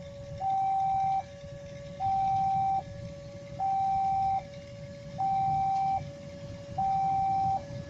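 Electronic two-tone warning signal alternating steadily between a lower and a higher tone, each held nearly a second, five high-low cycles in all, over a low rumble.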